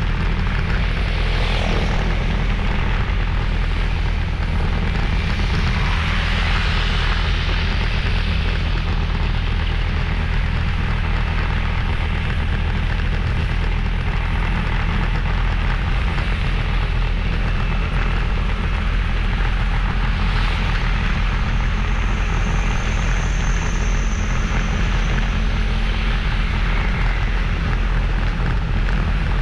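Motorbike engine running steadily at riding speed, with a constant rush of wind and road noise.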